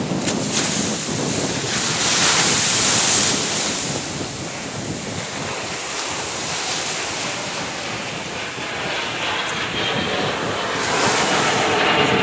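Ocean surf washing up the beach, with wind buffeting the microphone. The surf swells louder twice, about two seconds in and again near the end.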